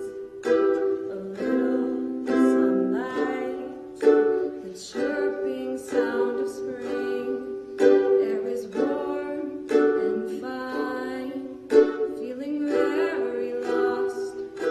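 Ukulele strummed in chords at a steady, even rhythm.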